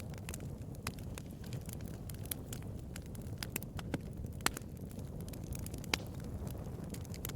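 Wood fire burning with a low steady rumble and frequent sharp crackles and pops, a few louder snaps standing out around the middle and near the end.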